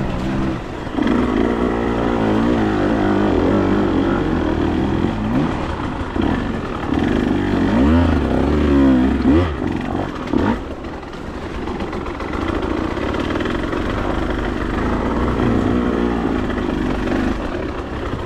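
Motorcycle engine running under way, its revs rising and falling, with the sharpest swings about eight to ten seconds in.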